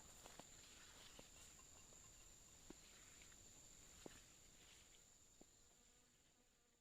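Faint outdoor ambience with a steady high-pitched insect trill and a few scattered faint clicks, fading away near the end.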